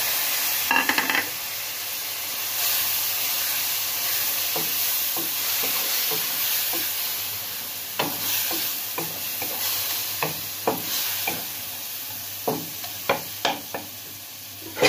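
Chicken, onion and tomato stuffing sizzling in oil in a steel kadai, with a short louder rush about a second in as the chopped tomatoes go in. From about eight seconds in, a wooden spatula scrapes and taps against the pan in a run of sharp clicks as the mixture is stirred.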